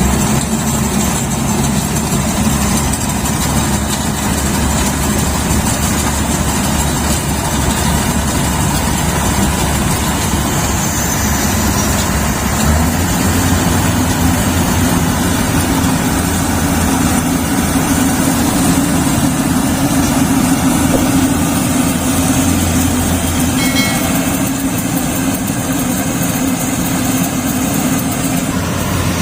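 Yanmar YH850 combine harvester running, a loud steady mechanical drone of engine and machinery; the engine note shifts upward about halfway through.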